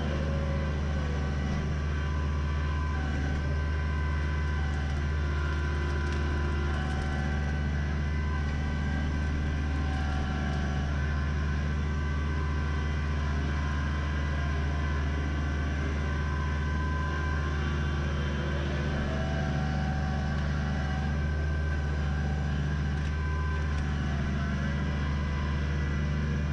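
Kubota BX23s compact tractor's three-cylinder diesel engine running steadily at a constant speed.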